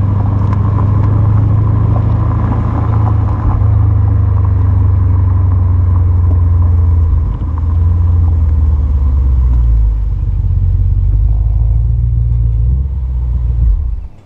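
V8 exhaust of a 2013 BMW 750Li through Flowmaster 50 Series Delta Flow mufflers, giving a deep, steady rumble as the car is driven. The pitch steps up and down a few times, then cuts off abruptly near the end.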